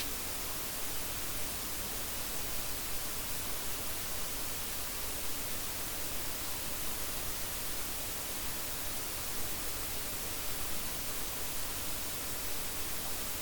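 Steady, even hiss like static, with no change or other sound in it.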